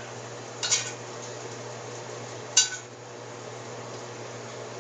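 Metal utensil clinking twice against a dish while salmon and asparagus are served from the skillet. The second clink rings briefly.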